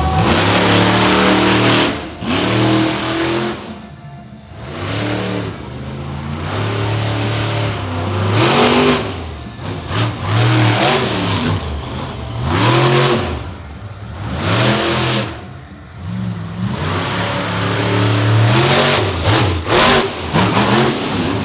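Monster truck engines revving hard, the pitch repeatedly climbing and falling, with a few short lifts off the throttle.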